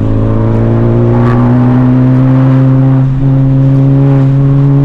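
Honda Civic Type R's turbocharged four-cylinder engine pulling under load, its exhaust note, through a catless downpipe and resonator-deleted exhaust, slowly rising in pitch with a brief break about three seconds in.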